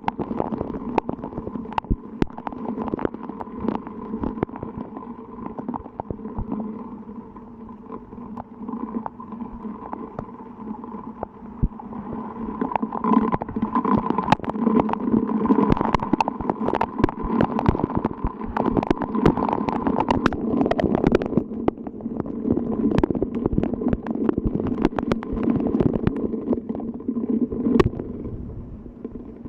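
Rain falling hard, with dense, irregular taps of drops striking a surface close to the microphone. It grows louder about twelve seconds in and eases off near the end.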